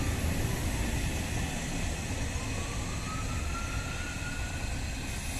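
A train of M4 passenger coaches, with a Vossloh G2000 diesel locomotive at its rear, rolling away. It makes a low rumble that slowly fades, and a faint whine rises in pitch from about two seconds in.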